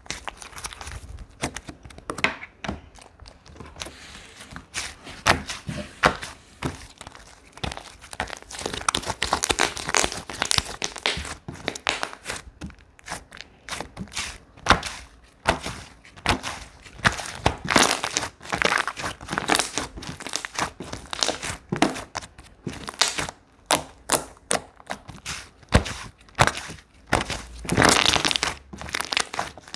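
Slime being squeezed and pressed by hand, making a steady run of irregular clicking and crackling pops.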